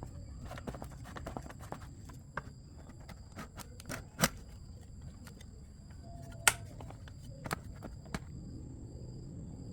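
Scattered clicks and light knocks, with two sharper knocks about four and six and a half seconds in, over two faint steady high tones.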